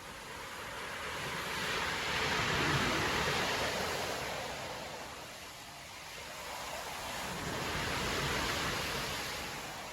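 Storm surf breaking on a beach: two waves swell and crash one after another, the first loudest about three seconds in, the second about eight seconds in.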